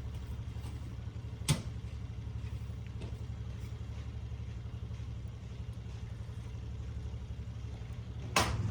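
A steady low mechanical hum, like an engine running, with two sharp clicks: one about a second and a half in and one near the end.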